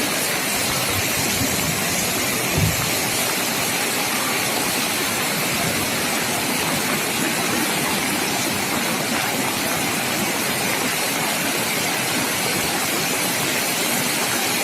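Heavy rain falling steadily, an even hiss, with a single brief thump about two and a half seconds in.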